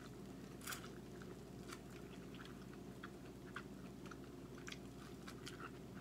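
A person biting into corn on the cob and chewing it, heard as a stronger bite click about a second in and then scattered soft clicks and crunches.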